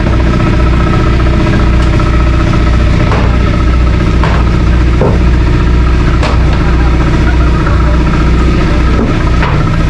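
An engine running steadily with a low, even drone, with several brief knocks over it.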